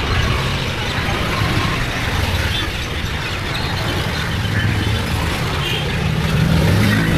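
Steady wind rush and road noise on the camera's microphone while riding a bike.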